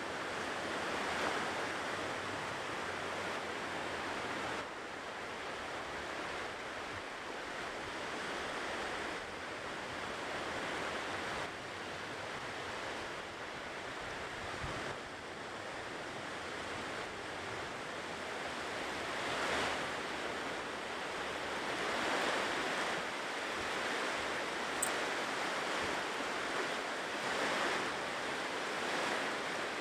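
Ocean surf washing onto a shore: a continuous rushing wash that swells and eases as each wave breaks, every few seconds.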